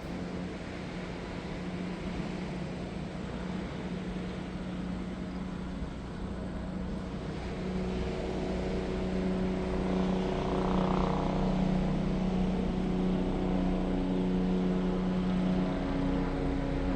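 A steady engine drone over wind and surf noise, growing louder about halfway through as it comes closer.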